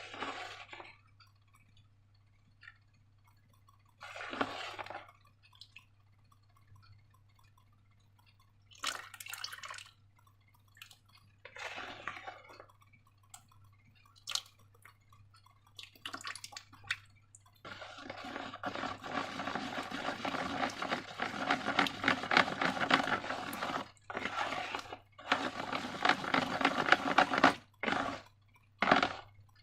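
Wet, sticky slime squelching as it is squeezed and handled: five short separate squishes, then from a little past halfway a long run of continuous squelching with many small clicks, broken by brief pauses near the end.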